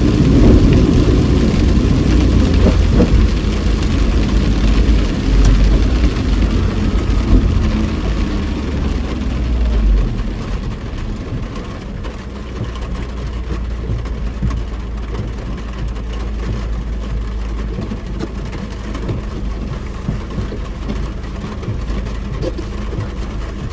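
Inside a car driving in heavy rain: steady road and engine noise, which eases about ten seconds in to a quieter, even level.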